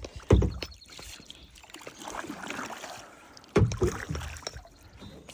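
Lake water splashing at a kayak: two loud splashes, the first just after the start and the second about three and a half seconds in, with quieter water sounds between them.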